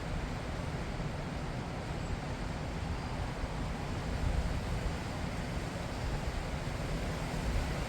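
Strong wind blowing across the microphone: a steady rushing noise, heaviest in the low rumble, rising and falling a little without a break.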